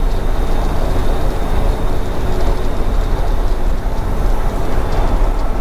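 Steady engine and tyre noise inside a box truck's cab at highway cruising speed, a loud low drone.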